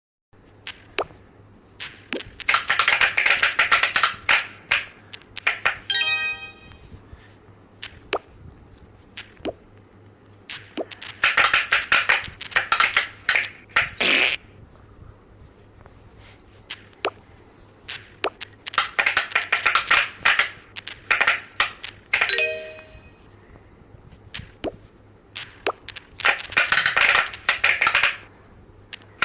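Pop-it fidget toy being pressed: four runs of rapid popping clicks, each lasting a few seconds, with single pops in between. A short chiming tone sounds twice.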